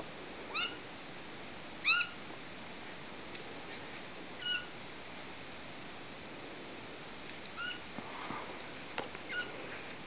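Garden sprinkler spraying with a steady hiss, while a bird gives five short, high calls spread through, the second about two seconds in the loudest.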